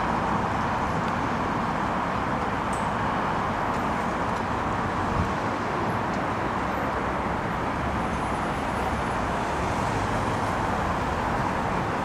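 Steady outdoor city background noise, a constant hiss and low rumble of distant road traffic.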